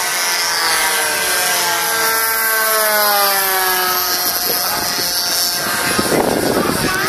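Single-cylinder two-stroke DLE 20cc gas engines of RC warbird models in flight, their propeller drone falling slowly in pitch as they fly past. About six seconds in, a rougher, louder rush of sound comes in.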